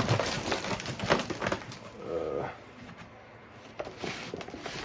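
Cardboard firework cakes being picked up and set down on a table, a run of knocks and rustles, with a short pitched sound about two seconds in and a few more light clicks near the end.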